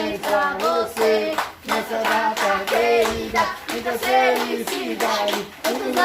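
A group of voices, children among them, singing a birthday song together over steady rhythmic hand-clapping.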